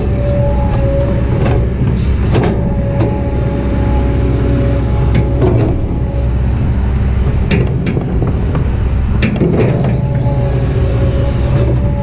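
Kobelco SK200-8 hydraulic excavator working: a steady diesel engine rumble under a steady hydraulic whine, with a few short knocks from the machine and bucket.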